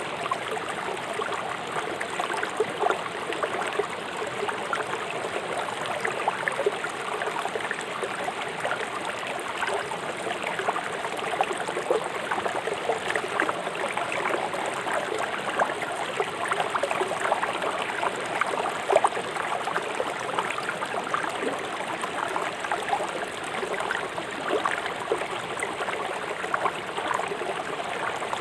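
Fast-flowing river rushing and burbling over rocks: a steady roar of water with constant small splashes and gurgles.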